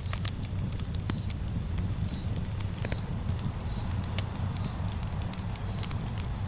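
Campfire burning: irregular sharp crackles and pops over a steady low rumble of the flames. A short, high chirp repeats about once a second in the background.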